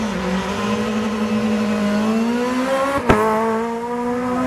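Rally car engine held at high revs, a steady, slightly wavering note, with one sharp bang about three seconds in.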